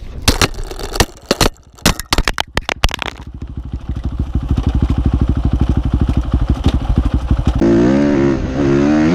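Dirt bike engine: a string of sharp knocks and clatter for the first three seconds, then the engine running with a steady rapid beat. Near the end the engine revs up and down.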